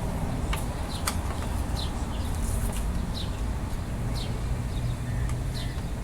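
Steady low rumble, like a running engine or traffic, with many short falling chirps from small birds scattered over it.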